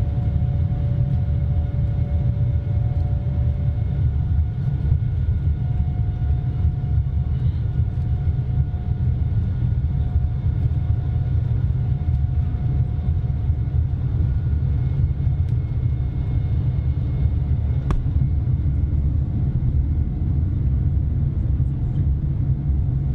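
Steady low rumble of cabin noise inside a Boeing 787-9 airliner, with faint steady hums above it.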